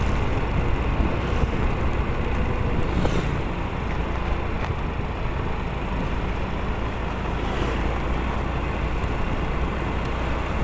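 Motorcycle running at road speed: steady engine rumble mixed with wind and road noise on the microphone.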